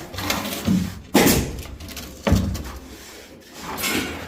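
Trowel strokes spreading cement mortar plaster onto a wall: a short, sharp scraping stroke about once a second, with a softer one near the end.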